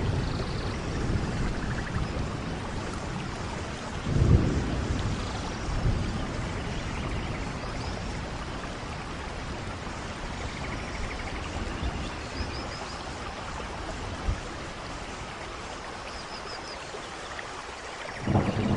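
Steady rain with rolling thunder: a low rumble swells about four seconds in, a smaller one follows around six seconds, and another builds near the end.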